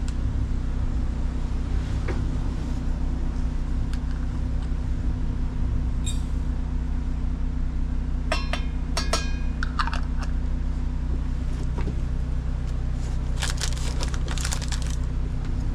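Vehicle engine running steadily, a low even hum, with a few sharp clicks and rustles about halfway through and again near the end.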